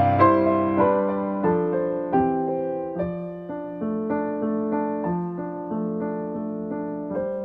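Background piano music: a slow, gentle run of struck notes that each ring and fade.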